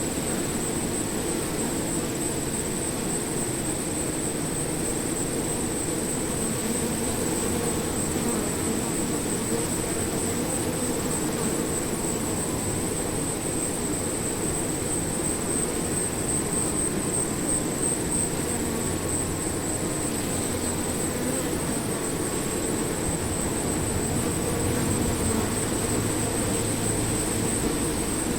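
A swarm of bees buzzing in a steady, dense drone that holds level throughout.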